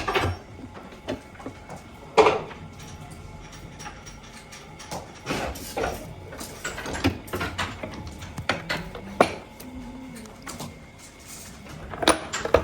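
Metal parts clinking and knocking as they are handled, with irregular sharp clicks, one louder knock about two seconds in and a quick run of clinks near the end.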